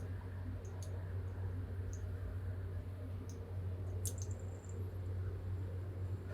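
A steady low hum, with a few faint, sharp clicks about a second in and again around three and four seconds in.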